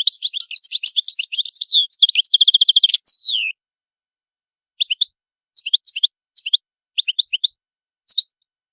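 European goldfinch singing: a fast, unbroken run of twittering and trilling notes ending in a downward-sliding note about three seconds in. After a pause of about a second come short clusters of chirping notes, a couple a second.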